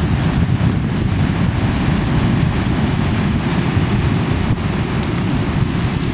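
Big ocean waves surging and breaking in a loud, steady rush, with heavy wind buffeting the microphone.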